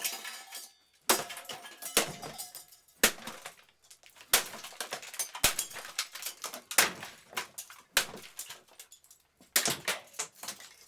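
Golf club repeatedly striking a Kambrook KES110 plastic-and-metal coffee maker, about one hard hit a second, each with a clatter and rattle of loose parts.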